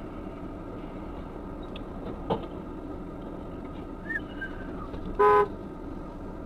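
Steady low road and engine noise from a moving vehicle, with a sharp click about two seconds in and one short car horn toot a little after five seconds in. The toot is the loudest sound.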